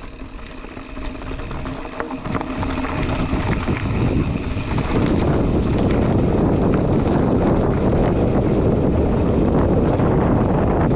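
Wind rushing over an action camera's microphone, mixed with tyre rumble and rattling from a mountain bike rolling over a dirt trail. It grows louder over the first five seconds, then holds steady.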